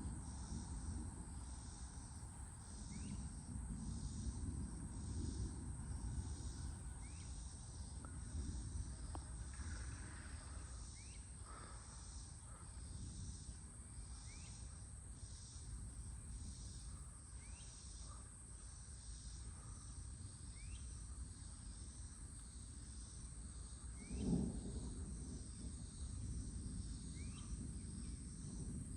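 Insects calling outdoors: a steady high-pitched drone with an even pulsing, and short rising chirps repeated about every second and a half. A low wind rumble sits underneath, and a single knock sounds near the end.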